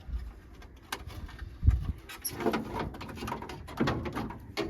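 Workshop knocks and clatter, with one heavy low thud about a second and a half in.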